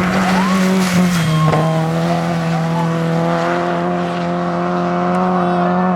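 Rally car engine held at steady high revs, its note stepping slightly lower about a second and a half in and then holding, with short tyre squeals in the first moments.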